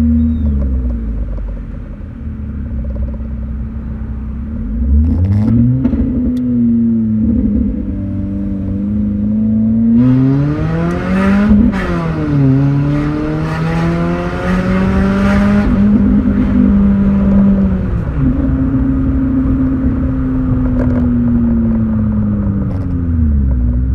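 Chevrolet Corsa engine revving while driving. Its pitch climbs, dips sharply about halfway through, climbs again with a rush of noise, then eases off slowly.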